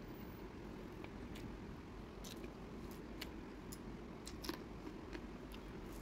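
Close-up chewing of a mouthful of rice and fried fish eaten by hand, heard as scattered short sharp clicks over a low steady hum.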